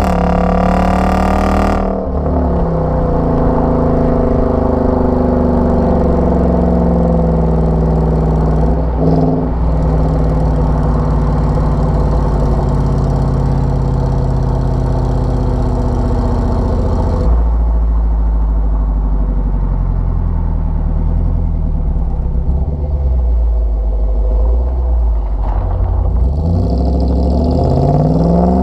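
5.7 Hemi V8 running through a Solo Performance MR212-HJ stainless converter-back exhaust with H-pipe, resonators and J-pipes. The engine note rises and falls repeatedly as it revs up and settles back.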